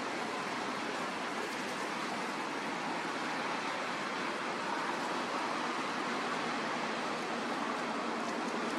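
Strong wind blowing, a steady rushing noise without a break.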